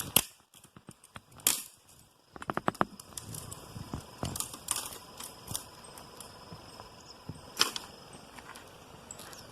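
Dry twigs and kindling of a just-lit campfire snapping and crackling: irregular sharp cracks, with a few louder snaps at the start, about a second and a half in, and later on.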